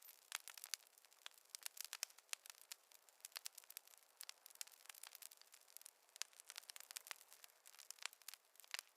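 Wood fire crackling: many small, irregular sharp pops and snaps, several a second, faint and thin with no low rumble.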